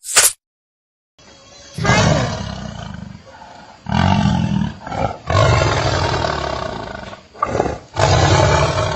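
A large animal roaring: four long, deep roars one after another, each a couple of seconds long. A short sharp click comes right at the start.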